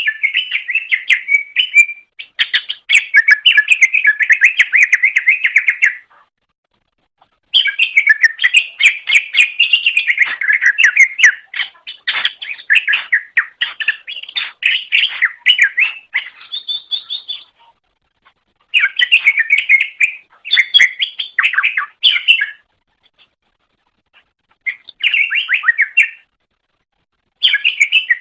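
Cucak ijo (green leafbird) singing in long phrases of fast, chattering and whistled notes, broken by pauses of a second or two.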